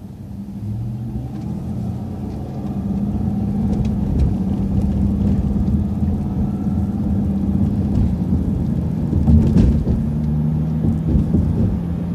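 Transit bus engine pulling away and accelerating, heard from inside the bus, growing louder over the first few seconds. The engine note drops in pitch about ten seconds in.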